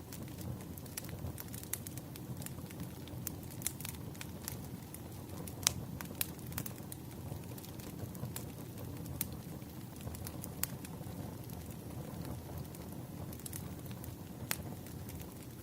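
Wood fire burning steadily with a low rumble and irregular sharp crackles and pops of the firewood, the loudest pop about six seconds in.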